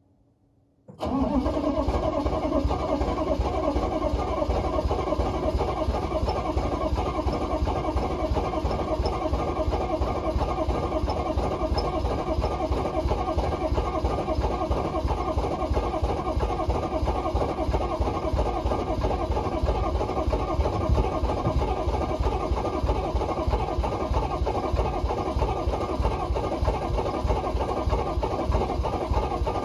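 6.5-litre Detroit V8 diesel engine on a cold start: it fires about a second in and then runs steadily.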